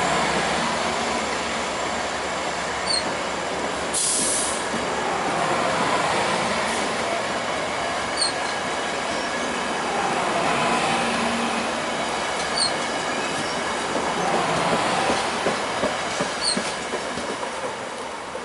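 A train rolling past, with a steady rumble and hiss of steel wheels on the rails. A short click comes about every four seconds, and there is a brief burst of hiss about four seconds in.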